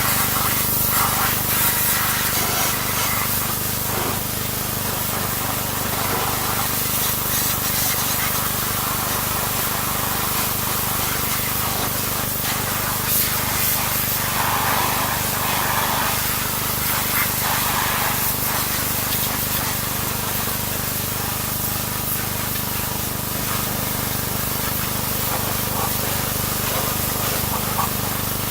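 Pressure washer spraying water in a steady hiss, with a constant low hum underneath.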